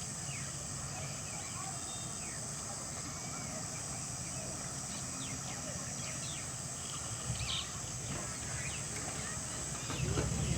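Wild birds chirping and calling: many short, quick-sweeping chirps scattered throughout, over a steady high hiss and a low rumble. Near the end a few lower, arching calls come in as the rumble grows louder.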